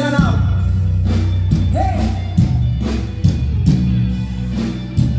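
Live rock band playing: electric guitar and bass over a steady drum beat, with a singer's voice coming in briefly.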